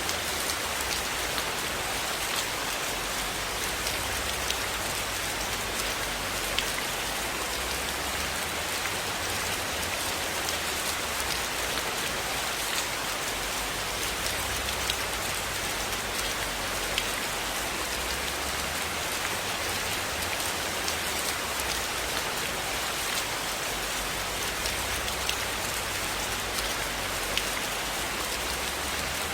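Steady rain falling on a surface: a dense, even hiss with scattered sharp ticks from individual drops.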